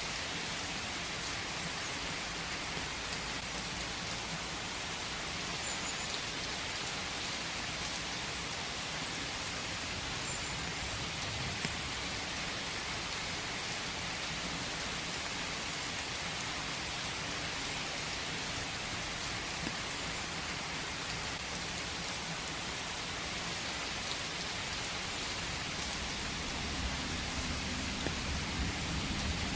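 Steady rain falling in a forest: an even hiss with a fine patter of drops. A low rumble builds near the end.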